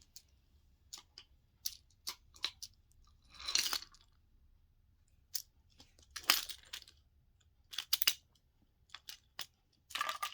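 Small toy pieces being handled: scattered light clicks with three short clattering rattles, about three and a half, six and eight seconds in.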